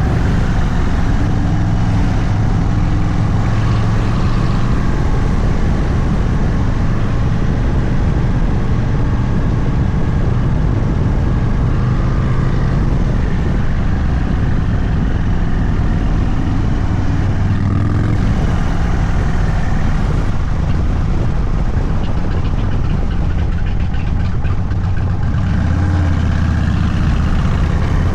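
Indian Sport Chief's Thunderstroke 116 V-twin with a Sawicki Speed exhaust, running steadily at low revs while the bike cruises.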